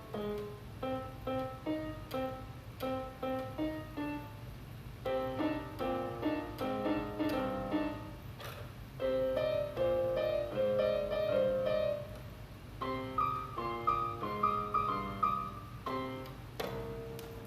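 Solo piano playing: a short figure of notes and chords repeated several times, then fuller chords under a higher melody, ending on a held note near the end. A low steady hum sits underneath.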